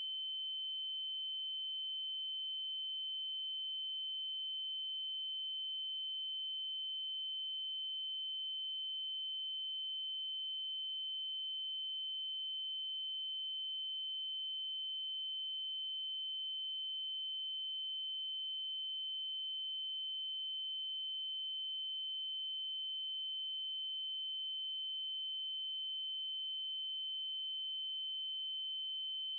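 Continuous synthesized 3072 Hz triangle-wave tone, a single high pitch held perfectly steady with faint higher overtones.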